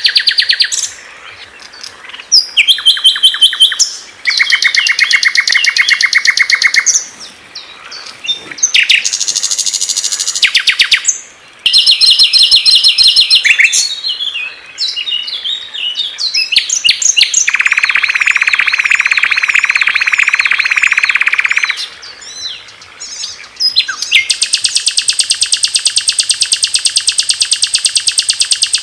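Songs of small songbirds spliced one after another: loud, high-pitched rapid trills and repeated chirps, each song type switching abruptly to the next every few seconds. There is a long buzzy trill around the middle and a fast, even trill near the end.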